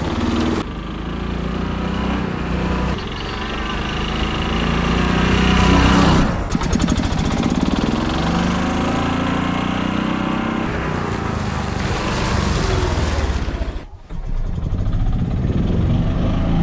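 Club Car gas golf cart's Kawasaki FE290 single-cylinder four-stroke engine running while the cart drives, picking up speed over the first six seconds, then easing off and picking up again. About fourteen seconds in it drops away briefly, then comes back.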